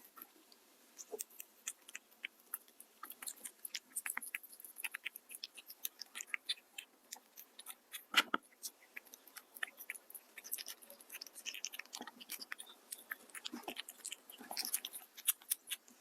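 A cat chewing and lapping at food up close: a steady run of small, irregular wet smacks and clicks, with one louder click about eight seconds in.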